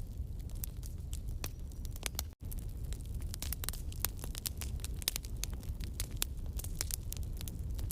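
Wood campfire crackling, with frequent sharp snaps and pops over a low steady rumble; the sound cuts out for an instant about two seconds in.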